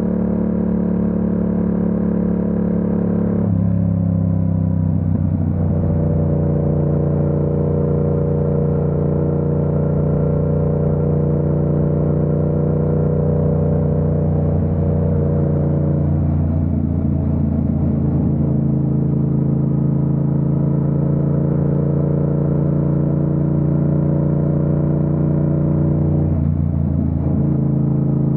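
Yamaha MT-07's 689 cc parallel-twin engine running steadily under way, heard from the rider's position. Its note drops abruptly a few seconds in and changes again midway and near the end, as at gear changes.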